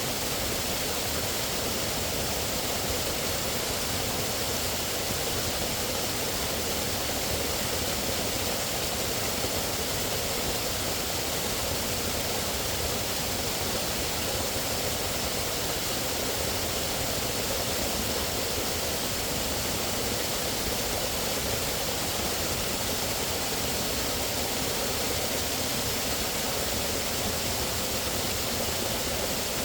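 Flowing water rushing with a steady, unchanging hiss, with no distinct events.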